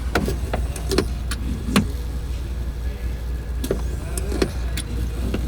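Hand engine primer being pumped in short strokes, the plunger clicking and squeaking, to prime the top cylinders of a cold seven-cylinder Jacobs radial before start. All this sounds over a steady low hum.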